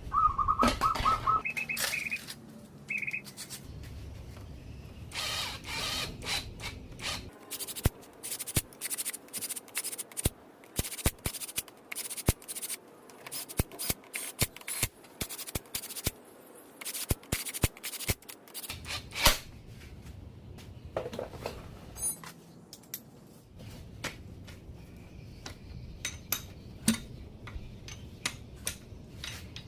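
Metal hand tools clinking, clicking and scraping against engine parts, with a quick run of sharp clicks in the middle and a brief high squeak at the start.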